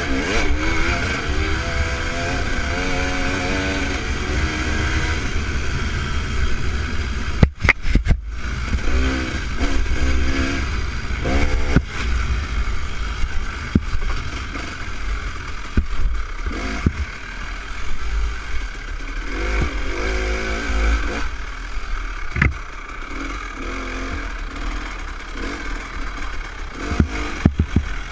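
Dirt bike engine revving up and down as it is ridden along a motocross trail, with a strong low rumble throughout. A quick cluster of sharp clattering knocks comes about eight seconds in.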